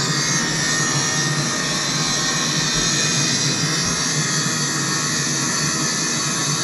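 Airbus A319's twin jet engines running, a steady rushing noise heavy in the high end with no change in level.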